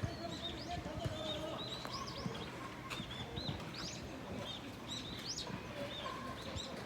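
Small birds chirping continuously, many short, high, rising-and-falling chirps overlapping one another.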